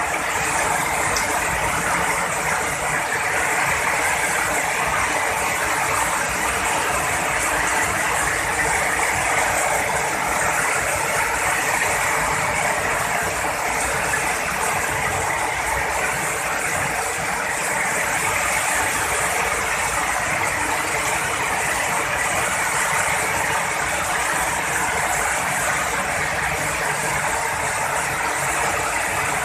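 Heavy rain falling in a steady, unbroken rush.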